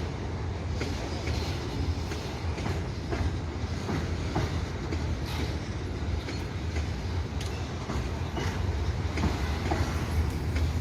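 Freight train wagons rolling past, a steady low rumble with wheels clicking irregularly over rail joints.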